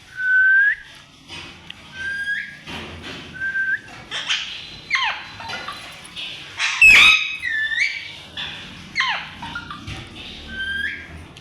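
Pet parrot whistling and calling: a few short rising whistles repeated, mixed with sharper sweeping calls, the loudest burst about seven seconds in.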